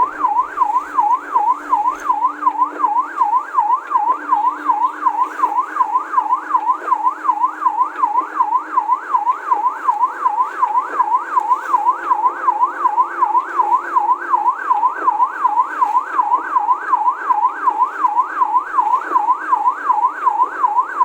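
Electronic siren in a fast yelp, its pitch sweeping up and down about two and a half times a second without a break.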